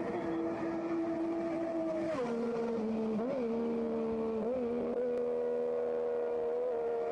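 Racing motorcycle engine running at high revs. Its note drops sharply about two seconds in, gives two short blips, then holds steady.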